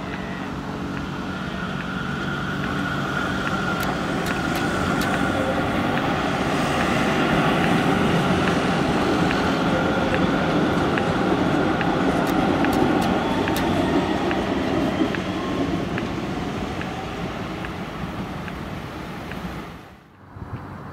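A VGF light-rail vehicle passing by. It grows louder to a peak in the middle and then fades away, with a steady electric motor whine over the wheel rumble and a few sharp clicks. The sound cuts off abruptly near the end.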